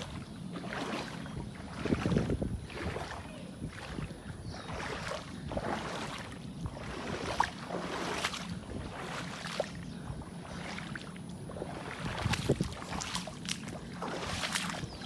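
Floodwater splashing and sloshing in irregular swishes, over a steady low hum.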